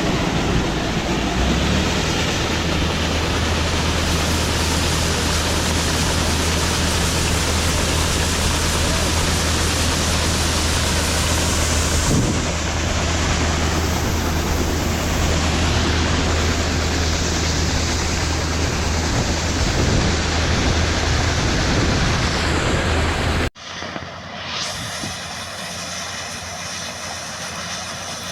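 Heavy farm machinery running loud and steady, a low engine hum under a wide rush of noise. About four-fifths of the way in it cuts off abruptly to a quieter, even engine drone.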